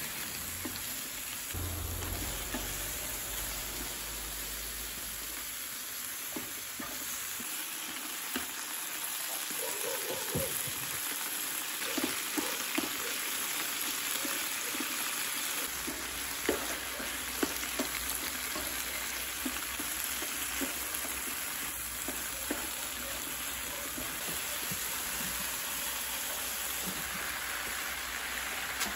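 Japchae ingredients (wood ear mushrooms, pork strips, glass noodles and vegetables) sizzling in an oiled pan as they are stir-fried with chopsticks, with scattered sharp clicks of the chopsticks against the pan.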